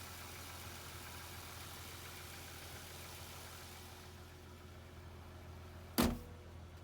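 Car engine idling steadily with a low hum, then one sharp knock about six seconds in.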